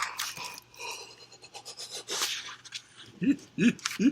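Packaging rustling and crinkling in irregular short crackles as a mailed book package is opened by hand. Near the end come three short, low pitched rising-and-falling sounds.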